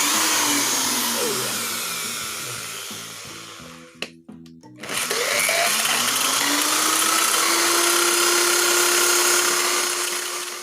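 PT2399 delay/noise effect circuit putting out loud hiss with echoing tones that glide in pitch. The hiss starts suddenly, fades over a few seconds and breaks off. It comes back about five seconds in and settles into a held tone.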